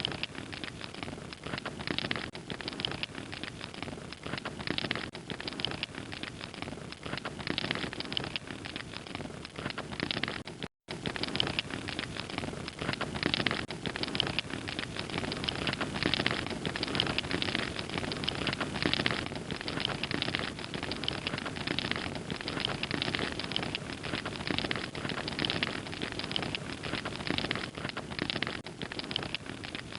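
Wood fire crackling steadily, a dense run of small pops and snaps over a soft hiss. About eleven seconds in, the sound cuts out completely for a fraction of a second, then resumes.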